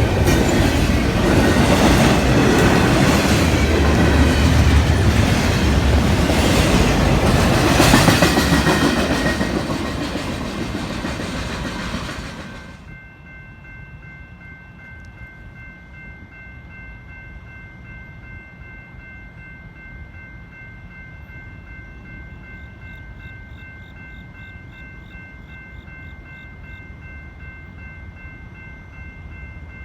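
Freight or passenger train passing close by, its wheels clicking rhythmically over rail joints, fading out and cutting off about twelve seconds in. Afterwards steady faint high tones remain.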